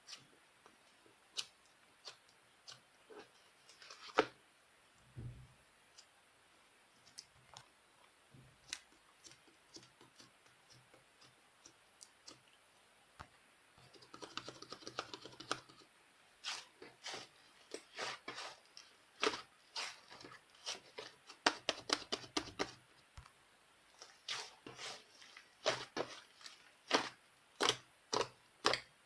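Small, sharp clicks and taps, sparse at first and coming thick and fast from about halfway, with a short stretch of scratchy rustling in between.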